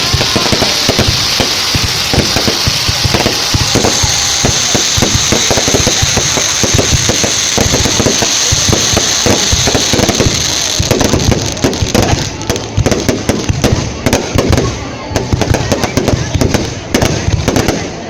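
Fireworks going off in a rapid, continuous barrage of bangs and crackles, with a steady hiss for about the first ten seconds; after that the bangs come more spread out.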